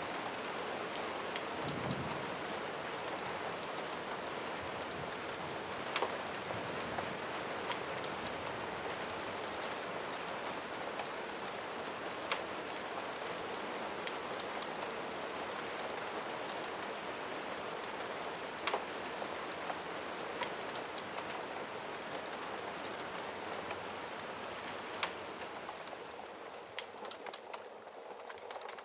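Steady rain pattering, with an occasional sharp tick every several seconds, and a brief dip in loudness near the end.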